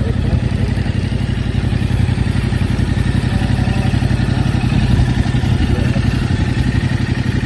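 2021 Yamaha R7's 689 cc parallel-twin engine idling steadily, a fast even pulse with no revving.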